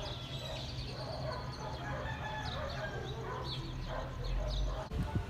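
Rooster crowing, with short high chirps over a low steady hum.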